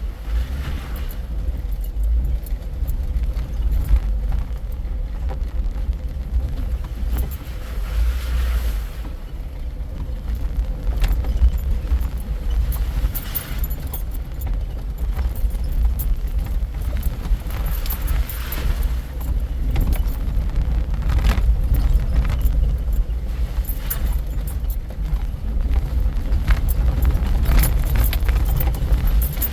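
Off-road vehicle driving along a trail: a steady low engine and drivetrain rumble with loose rattling and clinking over the top.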